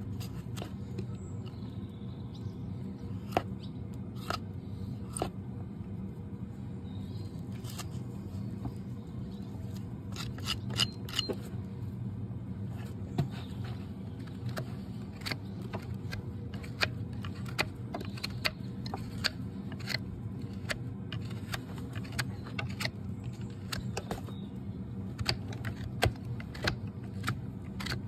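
Sharp, irregular clicks and snips of hoof-trimming tools cutting and paring a Shire horse's hoof, over a steady low hum.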